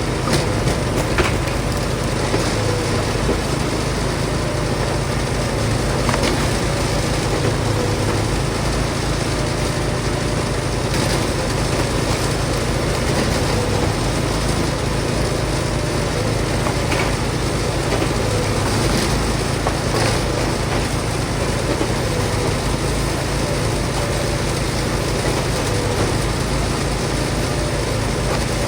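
Log splitter's engine running steadily at a constant speed, with a few sharp knocks scattered through it.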